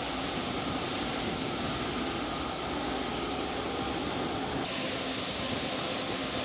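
Steady rushing noise of jet aircraft engines heard from a distance, with a faint underlying hum. The hiss turns suddenly brighter about four and a half seconds in.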